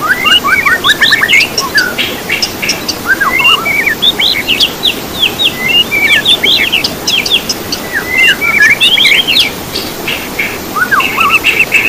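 Songbirds chirping and twittering in quick, overlapping short notes and down-slurred calls, over a steady hiss.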